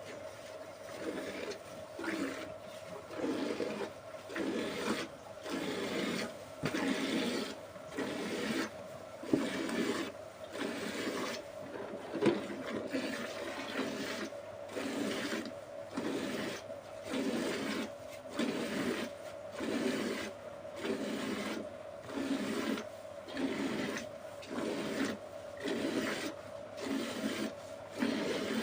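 A cow being milked: milk spurting into a pail in regular strokes, about one a second, over a faint steady hum.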